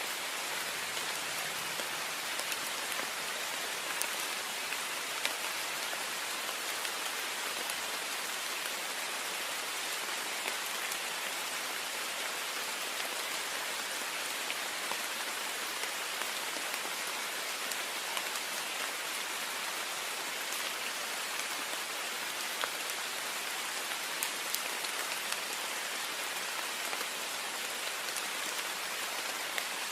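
Heavy rain falling steadily on a window pane: an even hiss of rain with scattered small drop ticks.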